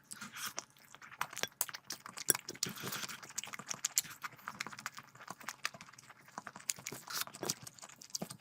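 Close-miked eating sounds: wet chewing with quick, irregular mouth clicks and smacks, denser and louder in the middle.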